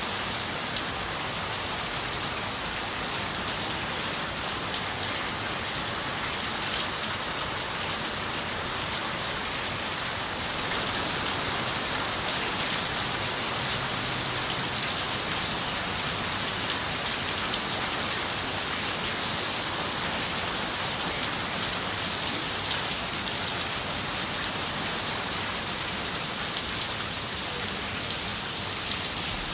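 Steady rain pattering on window glass: a dense, even hiss of raindrops with fine individual drop ticks, a little louder from about ten seconds in.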